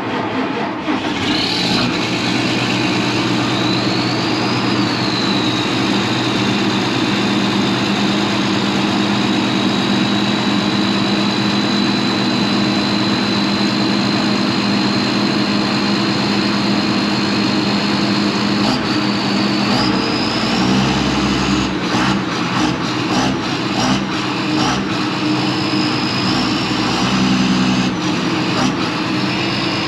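A 7530 tractor's diesel engine running steadily just after a cold start on a frosty morning, with a high steady whine above the engine note. About two-thirds of the way through the note gets heavier for several seconds, with a few knocks, and the whine climbs a little higher.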